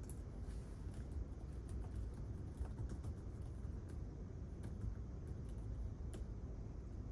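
Quiet library room tone: a steady low hum with scattered faint, irregular clicks and taps, typical of typing and small objects being handled nearby.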